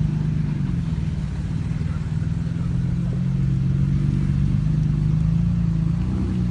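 Off-road 4x4's engine running hard under load on sand, its pitch dipping briefly at the start, then holding steady and rising slightly near the end.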